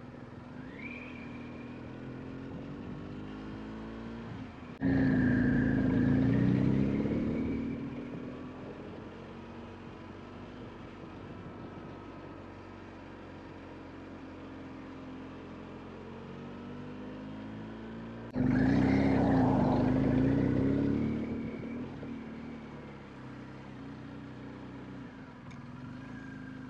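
A vehicle engine running, its pitch rising and falling. About five seconds in and again about eighteen seconds in it suddenly gets much louder for a couple of seconds, then fades back.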